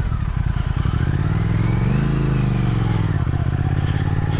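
Motorcycle engine under way: its note dips low at first, rises to a peak about two seconds in, then drops back and runs steadily.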